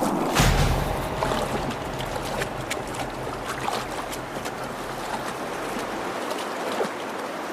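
Creek water running and splashing over stones, with many small sharp splashes and a heavy low thump about half a second in.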